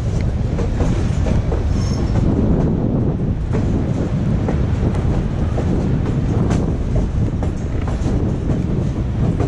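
Passenger train running on the rails, heard from on board: a steady rumble with the wheels clacking over the rail joints.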